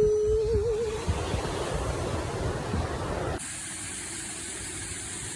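A voice holding a sung or hummed note that wavers in pitch, ending about a second in and giving way to a steady rushing noise. The noise cuts off abruptly a little over three seconds in and is replaced by a quieter, steady hiss.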